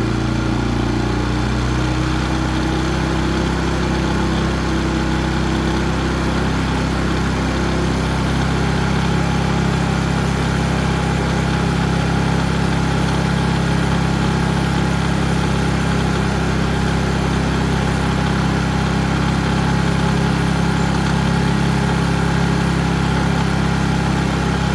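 Harbor Freight Predator 3500 generator's engine running on partial choke, its speed shifting in the first few seconds and then settling steady. It will only keep running with the choke partly on, the same fault it had before the carburetor jets were cleaned.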